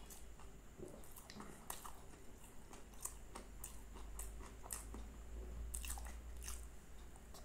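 A person chewing food close to the microphone: an irregular run of moist mouth clicks and small crunches.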